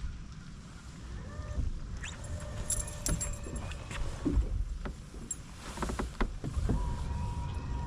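Scattered knocks and clicks in a fishing boat over a steady low rumble.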